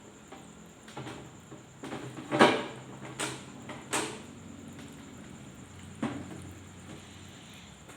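A series of sharp knocks and clatters, as of objects being handled and set down, about six in all, the loudest about two and a half seconds in, over a faint steady hum.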